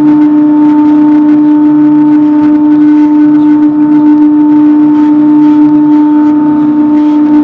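Sawmill with its debarker running through a fresh pignut hickory log: a loud, steady tonal drone with a fainter lower hum that comes and goes.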